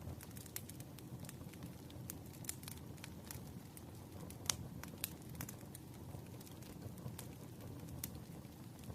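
Fire crackling over steady rain: irregular sharp pops and snaps, one louder pop about halfway through, over an even low hiss.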